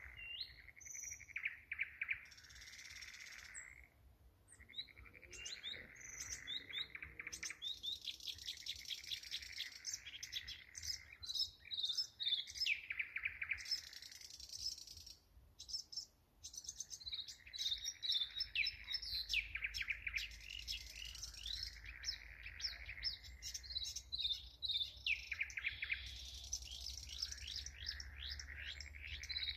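Two thrush nightingales singing in a duet at night, with rapid repeated notes, rattles and trills overlapping almost without pause. Frogs call in the background.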